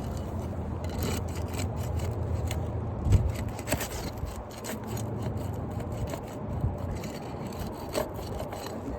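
Asphalt roof shingles being pried up by hand: repeated scraping and short crackling clicks as a damaged shingle is worked loose from its nails.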